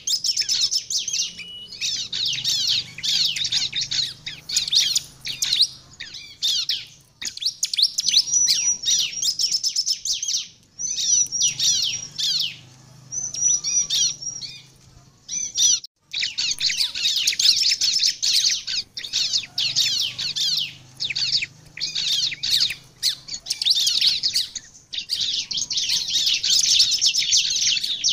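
Bar-winged prinia (ciblek) singing in full voice: a fast, high, chattering song in long bursts with short breaks between them.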